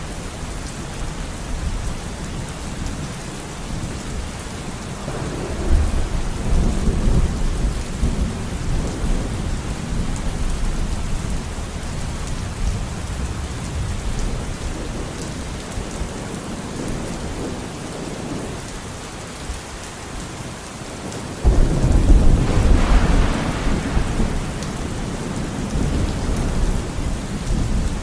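Steady rain falling, with two rolls of thunder. One rumbles in about five seconds in, and a louder, sharper clap breaks in about three-quarters of the way through and rumbles away over several seconds.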